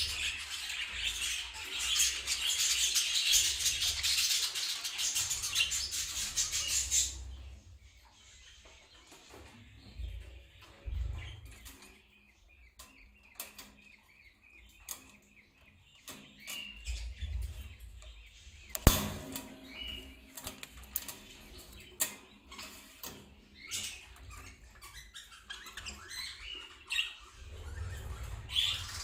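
Budgerigars chattering and chirping densely for about the first seven seconds, then only scattered chirps and small clicks and knocks in the cage, with one sharp click about two-thirds of the way through.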